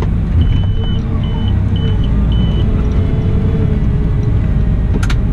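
Cat 972M XE wheel loader running steadily with a low rumble. A string of four short, high electronic beeps sounds in the first half, and a sharp click comes near the end.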